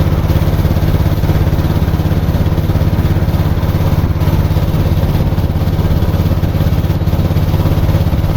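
Small Robin petrol engine of a motorised sampan running steadily at constant speed, with a fast, even firing beat.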